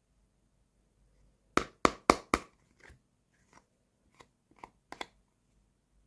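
Sharp clicks and taps of small hard objects being handled: four loud ones in quick succession about one and a half seconds in, then softer single clicks spaced out over the next few seconds.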